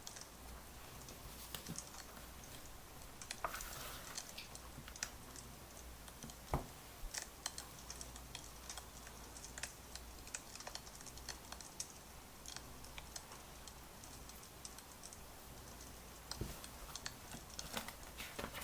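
Wood fire crackling: irregular sharp pops and snaps over a faint steady hiss, with one louder pop about six and a half seconds in.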